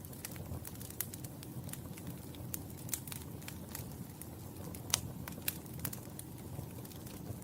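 Wood fire burning in a fireplace: a low steady rumble of flame with irregular sharp crackles and pops, the loudest pop about five seconds in.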